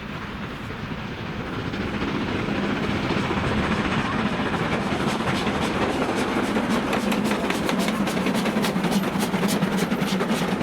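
A train running past on the line, growing louder over the first couple of seconds. A rapid run of clicks, typical of wheels over rail joints, comes in over the second half.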